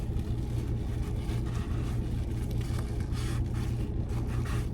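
A steady low hum, with light scattered rustles and clicks over it.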